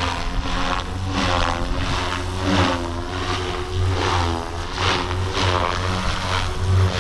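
GooSky RS4 400-size direct-drive electric RC helicopter flying 3D aerobatics: its rotor and brushless-motor whine swells and fades over and over, about once a second, as it manoeuvres.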